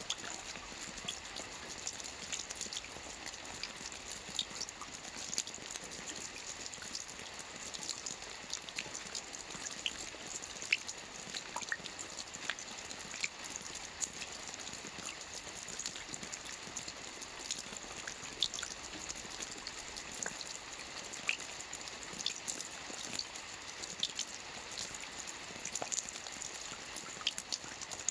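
Soft, steady rain falling on a roof: an even hiss with many scattered small drop ticks.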